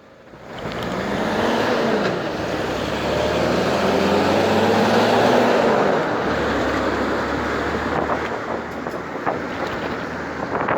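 Motor vehicle engine and road noise close by, swelling up about half a second in and staying loud, the engine's pitch rising and falling over the first few seconds before settling.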